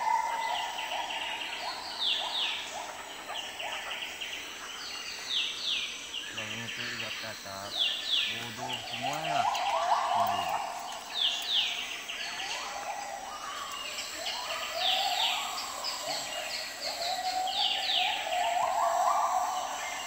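Forest birds calling: short series of high, quickly falling whistled notes, repeated every few seconds, over a lower trill that comes and goes.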